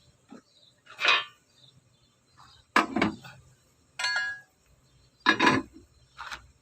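Metal suspension parts and tools clanking as they are handled and set down: several separate knocks, one of them ringing briefly like struck steel.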